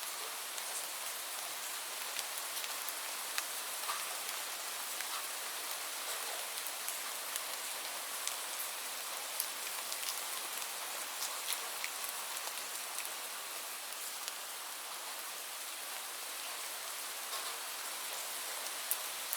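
Steady rainfall: an even hiss of rain with scattered distinct drops ticking on a surface.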